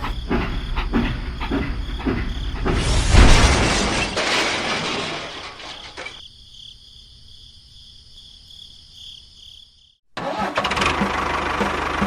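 Small engine running with a regular knocking beat, broken about three seconds in by a loud rushing noise that fades away, leaving a quieter stretch with a faint high steady tone; after a brief silence near the end the engine running resumes.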